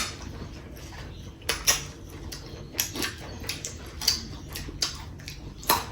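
A person eating curry and rice close to the microphone: a string of short clicks and smacks, one or two a second.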